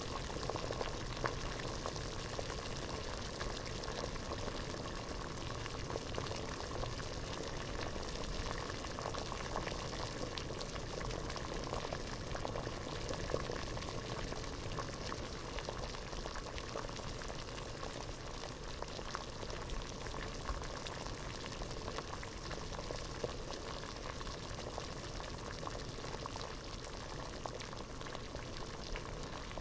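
Water at a rolling boil in a pot, bubbling steadily with many small pops and gurgles.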